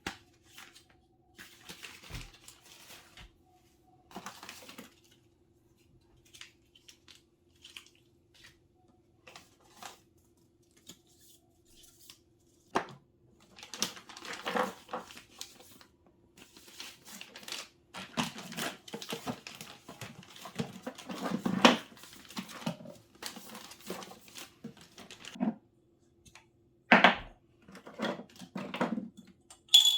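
Household handling sounds: bursts of rustling and crinkling with several sharp knocks and clatters, busiest in the second half, over a faint steady hum.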